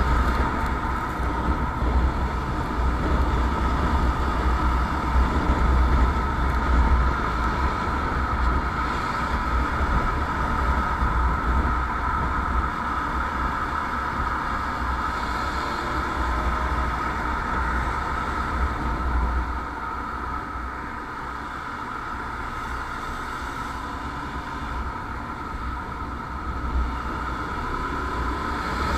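Motorcycle on the move: steady engine and road noise with heavy wind rumble on the microphone, easing off for a few seconds about twenty seconds in.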